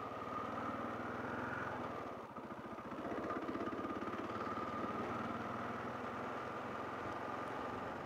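Kawasaki KLR650's single-cylinder four-stroke engine running steadily while riding, dipping briefly about two seconds in before pulling again.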